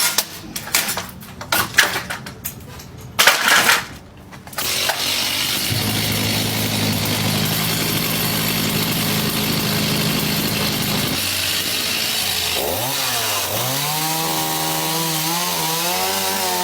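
A run of sharp knocks and cracks for the first few seconds, then a chainsaw starts up and runs steadily, its engine pitch rising and dipping in the last few seconds as it cuts.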